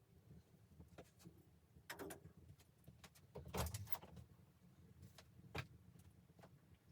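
A few quiet, scattered knocks and clicks, the loudest a thump about three and a half seconds in, with a sharp click about two seconds later.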